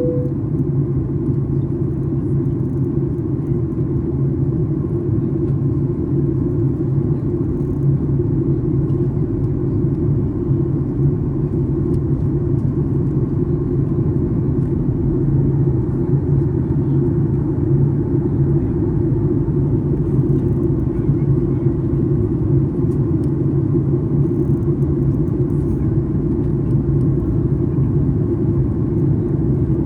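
Steady low rumble of a Boeing 737 MAX 8's engines and airframe as heard from inside the passenger cabin.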